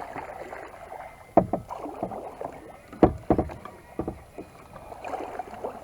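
Kayak paddle strokes in lake water: the blades dip and pull with a running splash, and a few sharper splashes stand out, the loudest about halfway through.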